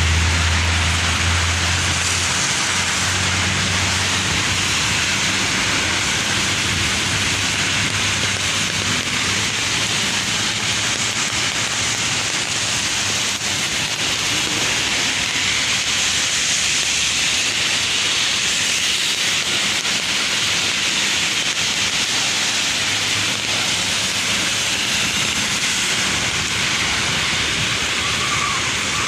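Heavy rain pouring steadily, a dense hiss of water. A low engine-like rumble fades out over the first couple of seconds.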